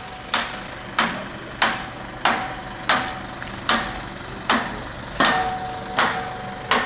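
Steady hammering: about ten sharp strikes, roughly one every two-thirds of a second, each ringing briefly.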